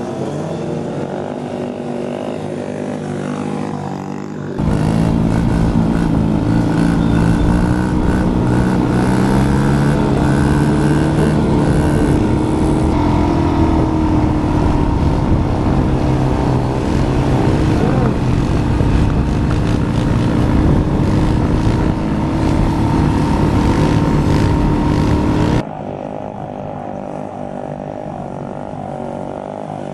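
Pit bike engines running and revving, the pitch rising and falling with the throttle. The sound steps abruptly louder about four and a half seconds in and drops back just as suddenly about four seconds before the end.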